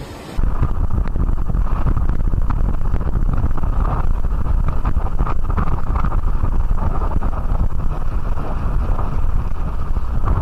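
Storm wind buffeting the microphone: a loud, steady low rumble that cuts in abruptly less than half a second in.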